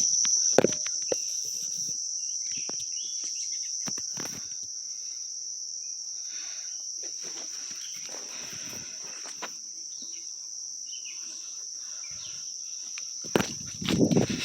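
Crickets chirping in a steady, unbroken high trill, with scattered soft rustles, and louder rustling about a second before the end.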